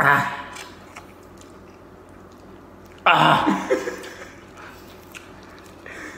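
A person chewing a mouthful of spicy instant noodles, with a short loud vocal outburst right at the start and a louder burst of laughter about three seconds in.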